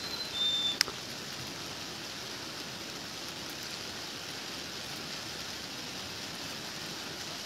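Steady rain falling, an even hiss. A few short high beeps and a sharp click come in the first second.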